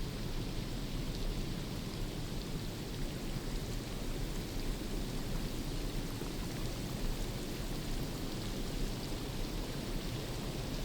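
Steady rainfall on forest foliage, an even rushing hiss with scattered faint drop ticks.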